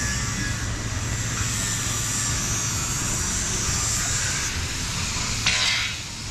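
Steady road vehicle noise: a low engine hum under a band of hiss, with a short burst of rushing hiss about five and a half seconds in.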